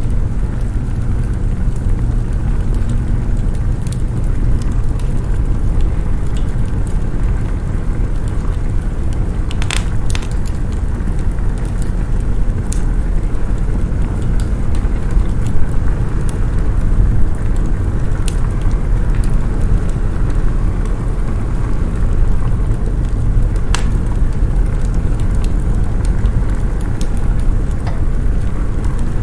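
Wood fire crackling, with sharp pops scattered through it and the loudest about ten seconds in and again near the end, over a steady low rumble of snowstorm wind.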